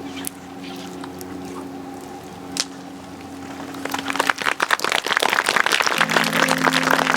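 Audience applause begins about four seconds in and quickly grows into dense, steady clapping over a steady low hum. Before it come only the hum and a few isolated sharp cracks.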